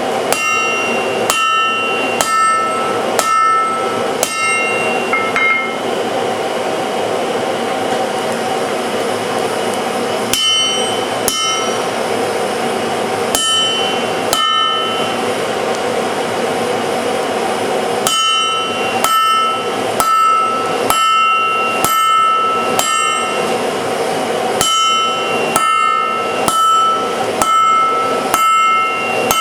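Forging hammer striking hot steel on an anvil, about one blow a second in several runs with short pauses between, each blow ringing briefly. A steady rushing noise runs underneath.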